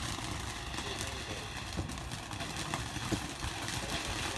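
A few faint, scattered firework pops and crackles over a steady hiss of outdoor background noise.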